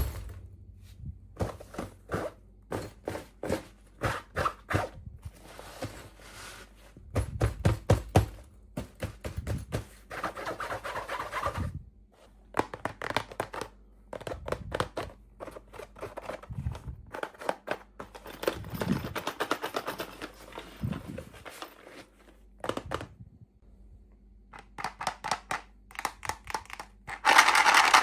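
Unboxing of miniature toy dolls: a string of small taps, clicks and knocks on plastic, with stretches of packaging crinkling and rustling. A sharp knock comes at the very start, and the loudest crinkling comes near the end.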